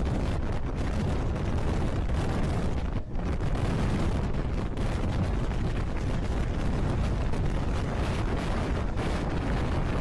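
Mumbai suburban electric local trains running on parallel tracks: a steady, heavy rumble of wheels on rail, with wind buffeting the microphone at an open train doorway.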